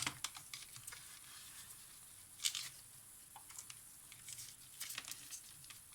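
Faint scattered clicks and light rustling of a Polaroid camera being handled, with a sharper click about two and a half seconds in and a run of small clicks a little before the end.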